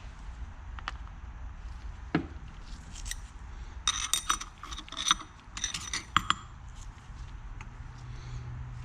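Small metal engine parts being handled during assembly, clinking and tapping against each other in a quick run of light clicks from about four to six seconds in, over a steady low hum.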